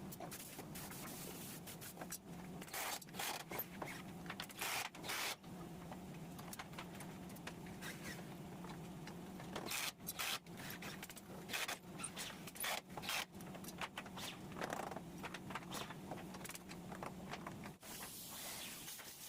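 Irregular clicks, light knocks and short scrapes over a steady low hum, with a longer hiss or scrape near the end.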